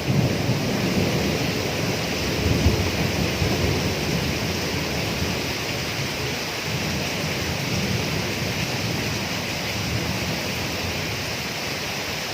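Steady rain hiss under a rolling low thunder rumble that is strongest in the first few seconds and then dies away, leaving the rain.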